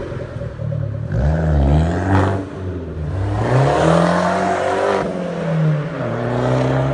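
Abarth 500's turbocharged four-cylinder through a Magneti Marelli aftermarket exhaust, revved several times: the pitch climbs and falls in short blips and one longer rev about midway, then settles into a steadier note near the end.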